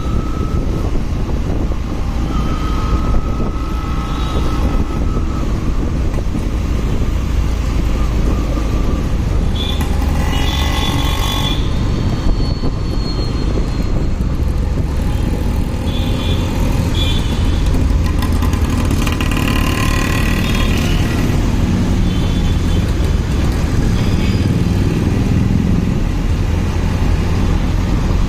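Riding a motorcycle in traffic: a steady engine and road rumble, with other vehicles heard passing now and then.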